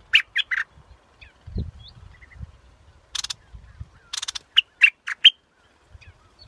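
Yellow bulbul (the Thai 'nok dok taeng') singing: a quick phrase of sharp, loud notes at the start, a few soft notes after, then a second burst of sharp notes about four to five seconds in.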